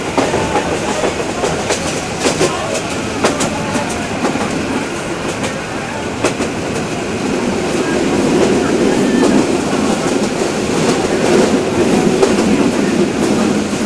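Passenger train running along the track, heard from inside a carriage: a steady rumble and rush of wheels on rail with scattered sharp clicks as the wheels pass over rail joints. The rumble grows a little louder about halfway in.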